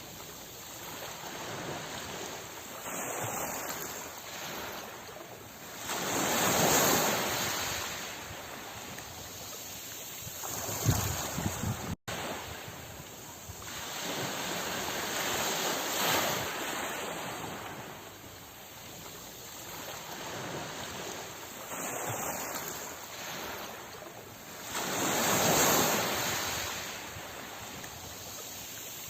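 Sea waves breaking and washing ashore in slow, irregular surges, two larger breakers swelling up and ebbing away, with a momentary dropout about twelve seconds in.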